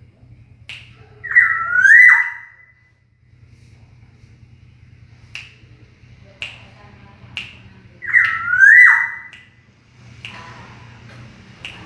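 Caged black-naped oriole (kepodang) giving two loud whistled calls about six seconds apart, each swooping down and back up in pitch. Sharp single clicks sound at intervals between the calls.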